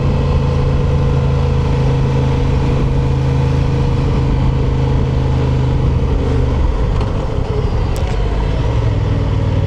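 Honda Transalp's parallel-twin engine running steadily on the move. About two-thirds of the way through its note drops and breaks up, as when the rider eases off or changes gear, then it settles into a steady note again near the end.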